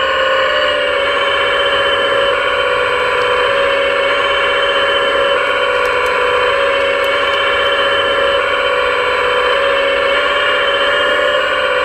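Steady, high whine of a scale RC model's hydraulic pump running, with slight shifts in pitch near the start and near the end as the load changes.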